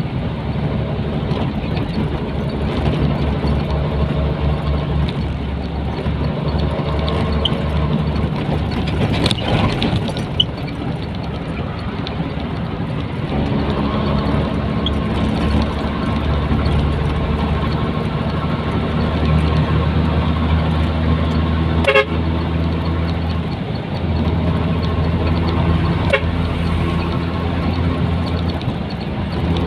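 Nissan Diesel container truck's diesel engine running on the road, heard from inside the cab, its note shifting a couple of times as the truck changes speed or gear.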